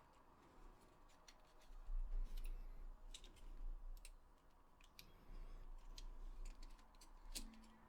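Faint, irregular small clicks and taps of PS4 controller parts being handled during disassembly.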